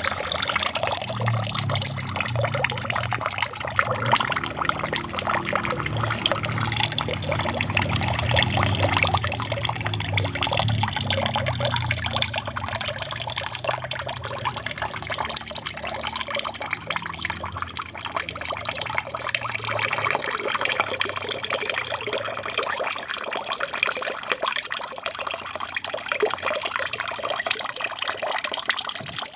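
Aquarium waterfall: water falling and splashing steadily in a continuous trickling rush, with a low rumble that eases off about two-thirds of the way through.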